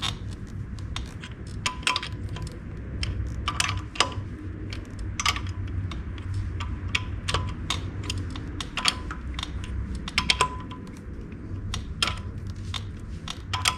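Irregular metallic clicks and clinks of a wrench working steel nuts down onto the clutch-housing bolts until they are snug, some strikes ringing briefly. A steady low hum runs underneath.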